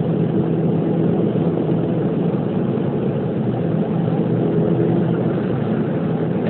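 Volkswagen Golf Mk5 GTI's 2.0-litre turbocharged four-cylinder engine running at a constant speed, heard from inside the cabin as a steady drone with road noise.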